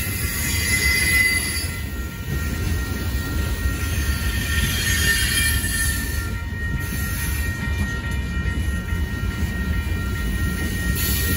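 A freight train's cars rolling past, with a steady low rumble of steel wheels on rail. High wheel squeal flares about a second in and again around five seconds.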